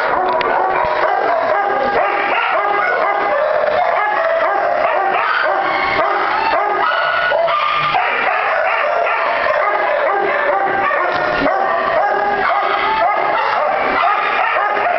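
Many kennelled dogs barking, yipping and howling at once in a loud, continuous din, the calls overlapping with no break.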